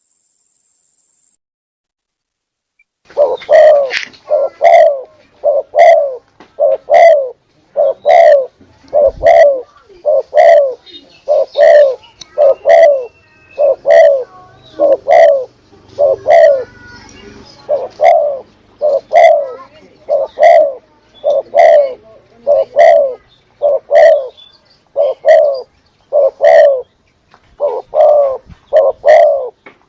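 Spotted doves (tekukur) cooing, played as a lure call for hunting. About three seconds of silence are followed by a steady run of loud, separate coo notes, roughly one a second, each dropping slightly in pitch.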